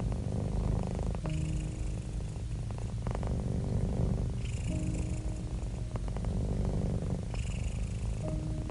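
Domestic cat purring: a low, continuous purr of about 25 Hz that swells and eases in a slow cycle of roughly three seconds with each breath.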